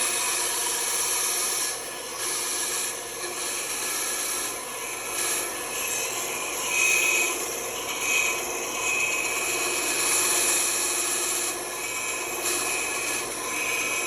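Band saw running and cutting through a piece of wood, steady throughout, with a thin whine that comes and goes as the piece is fed into the blade.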